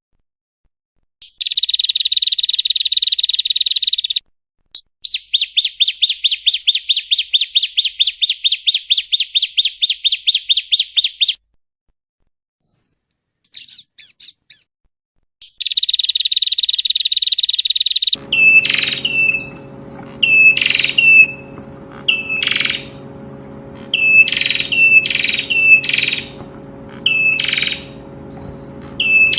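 Prinia (prenjak) song: a buzzy trill, then a long run of rapid repeated notes at about five a second, and another buzzy trill. After a cut to a recording with a steady background hum, sharp chirps come about once a second.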